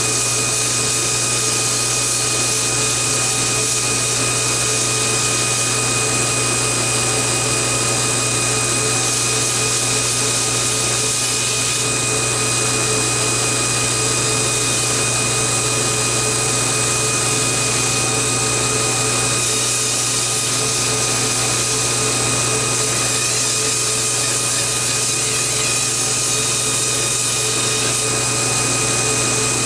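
TW90 belt grinder running steadily with a constant motor whine, its 320-grit scalloped belt run slack over the top of the platen and sanding the curves of a knife handle.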